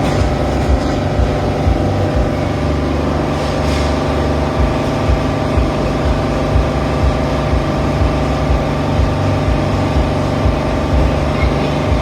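A vehicle engine running steadily, with a regular pulse about twice a second.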